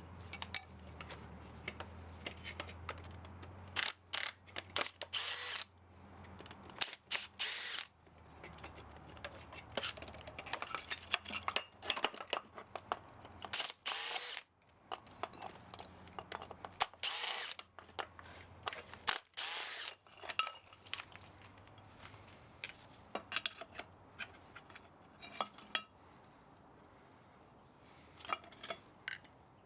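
Handheld power drill run in several short trigger bursts with a high whine. Clicks and knocks of metal parts being handled fall between the bursts, while an electric pump motor is being dismantled for scrap.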